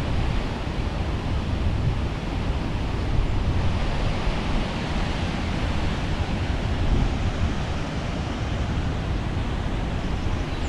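Steady roar of the High Force waterfall, water dropping between rocks, with wind buffeting the microphone.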